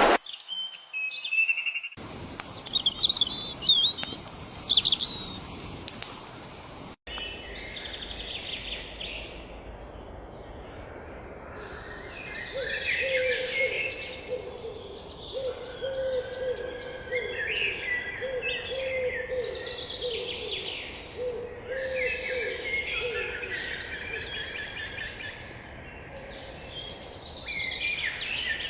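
Wild birds singing and calling, several at once, with high chirps and trills throughout. About halfway through, a lower call starts repeating roughly once a second under the chirping for around twelve seconds. The sound cuts abruptly twice in the first seven seconds.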